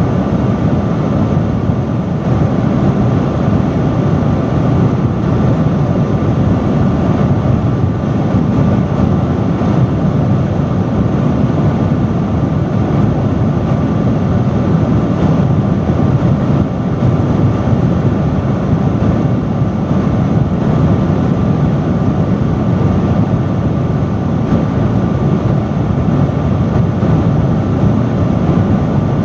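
Loud industrial fan running steadily: a constant rush of airflow, heaviest in the low range, with a faint steady hum on top.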